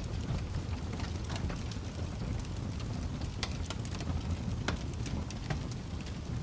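Wood fire crackling with scattered sharp pops over a steady low rush of snowstorm wind.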